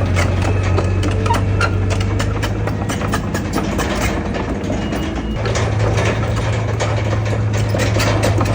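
Heavy diesel engine of earthmoving machinery running, with frequent clanks and knocks over it. Its low drone weakens about a second and a half in and comes back stronger about five and a half seconds in.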